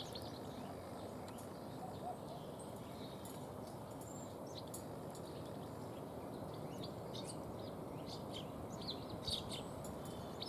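Small songbirds chirping, with short scattered calls that come thicker near the end, over a steady outdoor background hiss.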